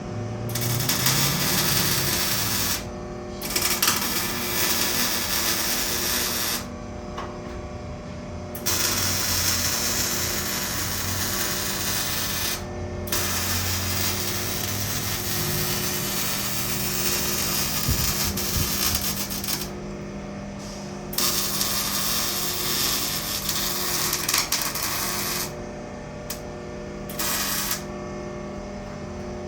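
Arc welder welding exhaust pipe in runs of a few seconds, with short pauses between them, over a steady hum.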